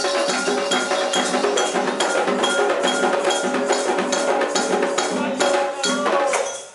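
Candomblé ritual percussion: hand drums and a metal bell play a fast, even rhythm that stops near the end.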